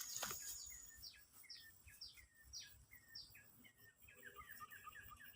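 A bird calling in a repeated series of short notes that slide downward, about two a second, with a quicker run of short notes joining about four seconds in. The calls are faint.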